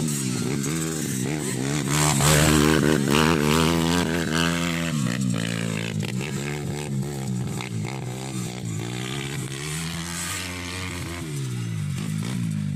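Motocross dirt bike engines racing, revving up and falling back again and again with the throttle and gear changes. Loudest about two to four seconds in.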